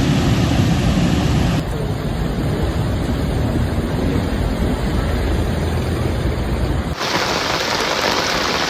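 Steady storm noise of wind and rain, heavy and low at first, then a brighter, hissing rain-like wash after an abrupt change about seven seconds in.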